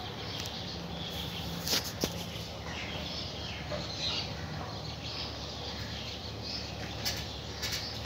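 Faint bird chirping over steady background noise, with a couple of sharp clicks about two seconds in.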